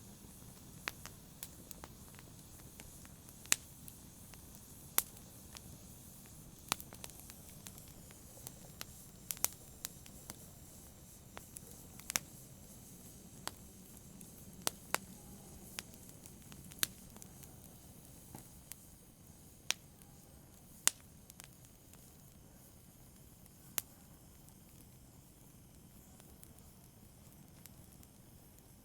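Campfire crackling: irregular sharp pops and snaps of burning wood over a low, steady rush of the flames.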